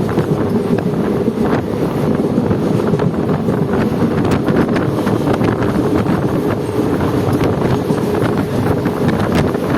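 A passenger train running, its steady rumble mixed with wind blowing hard across the microphone.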